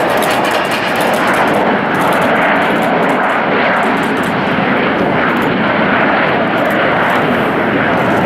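Jet airliner's engines, a loud, steady rush of noise that holds level throughout.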